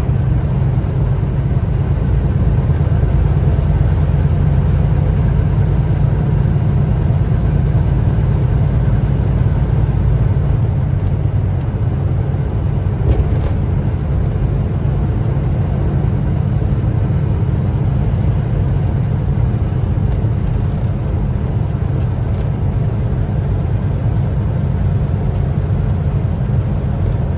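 Steady engine and road noise of a semi-truck running at highway speed, a constant low rumble.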